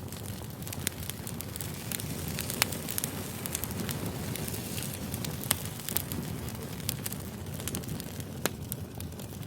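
Campfire crackling: a steady low rush of burning wood with sharp pops scattered throughout, the loudest about two and a half and five and a half seconds in.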